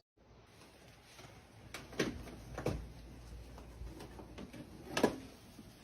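A few soft knocks or clicks, about two seconds in, again shortly after and once more near the end, over a low steady rumble.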